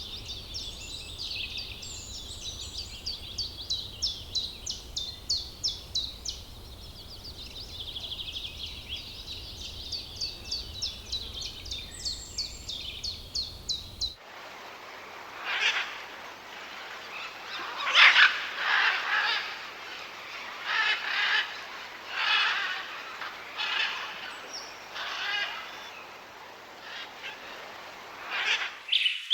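Birds calling in two different recordings joined together: first a fast run of high, thin chirps, about four a second, then, after a sudden cut about halfway, louder and harsher calls about a second apart.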